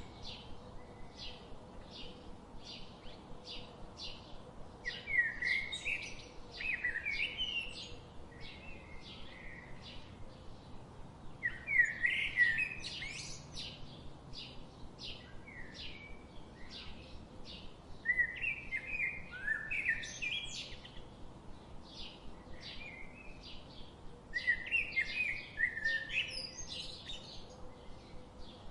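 Songbirds singing: a short high chirp repeated about twice a second, broken about every six seconds by a louder burst of warbling, fluttering phrases.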